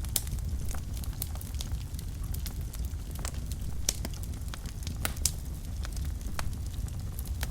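Wood fire burning in a fireplace: a steady low rumble of the flames with frequent irregular crackles and a few louder pops.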